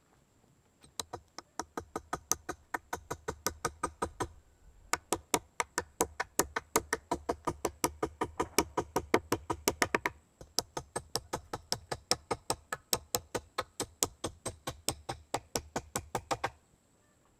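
Rapid, evenly spaced sharp knocks, about five a second, in three runs with short breaks about four and ten seconds in.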